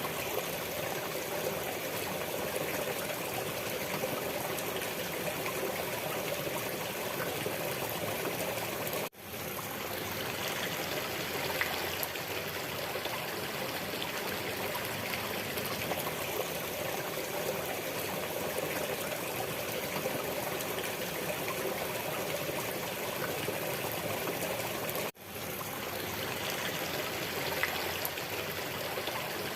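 A stream of water flowing and trickling steadily, briefly cutting out twice, about nine and twenty-five seconds in.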